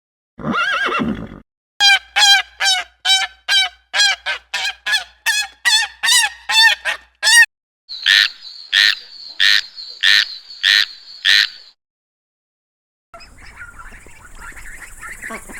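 Animal calls in quick succession, several different kinds one after another. First a single pitched call, then a fast run of about seventeen short honking calls. Next come six loud, evenly spaced calls, and after a short gap, steady chattering from a group of animals.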